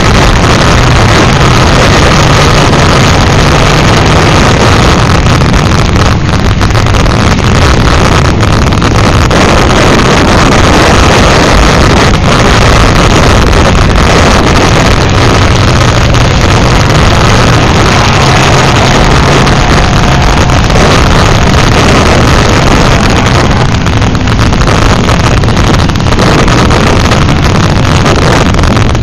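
Demolition derby cars' engines running in the arena, buried under heavy wind buffeting the microphone. The sound is loud and steady throughout.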